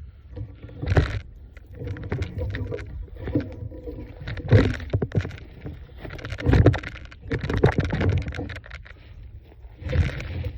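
Irregular thumps, knocks and rustling from beehive equipment being handled. The heaviest thumps come about a second in, in the middle and near the end.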